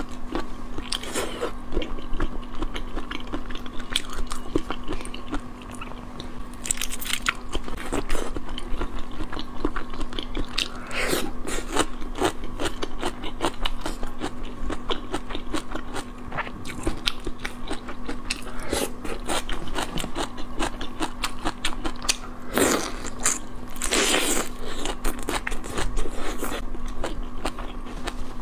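Close-miked mouth sounds of a person eating marinated raw shrimp: a dense run of wet chewing clicks and smacks, with a few louder crunchy bites.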